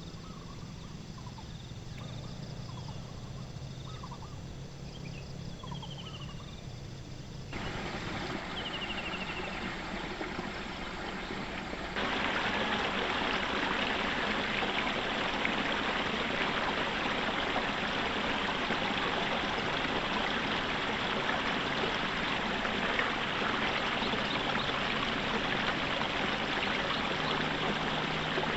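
A few faint bird chirps over a quiet background. Then the sound changes abruptly twice and becomes a loud, steady rushing hiss with no rhythm.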